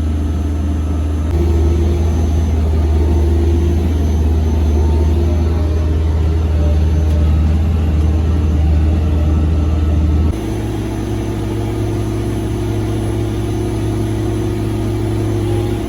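Large farm tractor's diesel engine running steadily under throttle, a deep drone that gets louder about a second in. About ten seconds in the sound changes suddenly to a quieter, steady running note.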